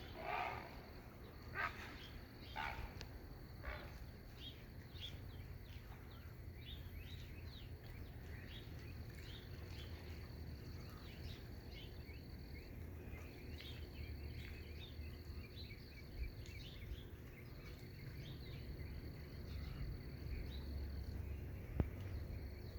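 Shoreline morning ambience. A few loud bird calls in the first few seconds give way to many quick, falling chirps of small birds, over a steady high insect trill, like a cricket's, that breaks off a couple of times, and a low rumble of wind and water. A single sharp tick comes near the end.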